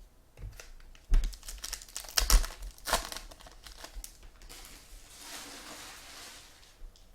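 Foil trading-card pack wrappers crinkling and tearing as packs are ripped open: a run of sharp crackles in the first few seconds, then a longer, smoother rip.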